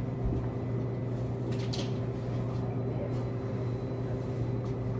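Steady hum of running laundromat machines, with one brief faint rustle about a second and a half in.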